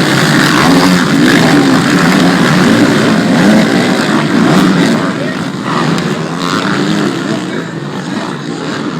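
Motocross bike engines racing past, revving up and down as the riders work the throttle; loudest through the middle, fading toward the end.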